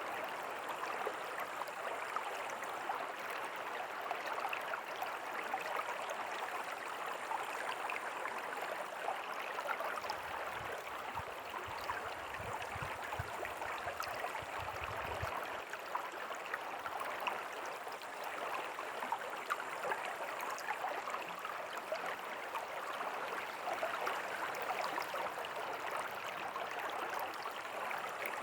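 River water flowing: a steady rushing and babbling with many small splashes. A faint low rumble comes in for about five seconds around the middle.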